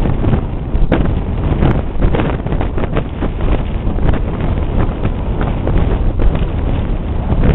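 Strong wind buffeting the microphone: a loud, gusty rush with repeated short blasts.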